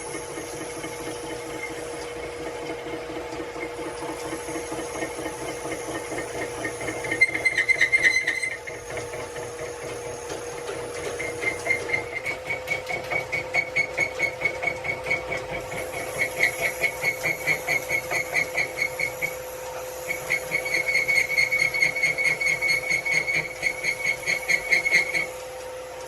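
A workshop machine running with a steady hum. Over it come bursts of rapid, even ticking, about three a second, which set in for good about twelve seconds in and stop shortly before the end.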